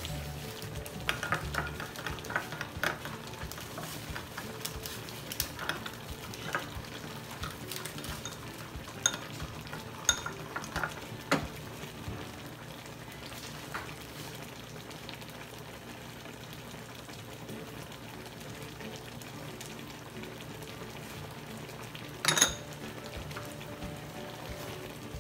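Seafood frying in butter and garlic in a pan, with a steady sizzle. A utensil stirs and clinks against the pan many times in the first half, and there is one louder clatter near the end.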